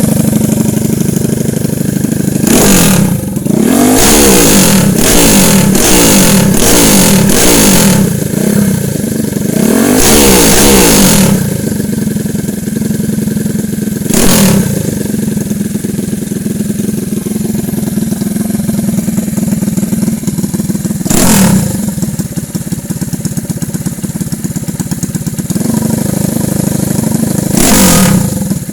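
130cc drag bike engine idling between throttle blips. Several quick revs come close together in the first eight seconds, then a longer rev about ten seconds in, then single sharp blips several seconds apart.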